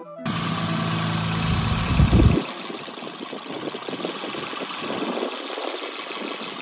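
2008 Acura TL Type-S's 3.5-litre V6 idling high while Seafoam is drawn in through a vacuum hose near the throttle body. A little over two seconds in, the deep steady engine note drops away, leaving a rougher, uneven running sound.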